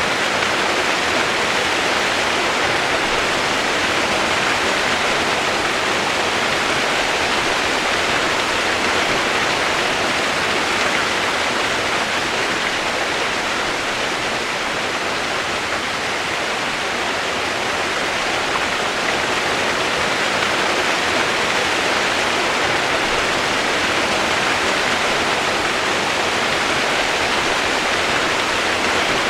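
Steady, even rush of flowing water, with no change over the whole stretch.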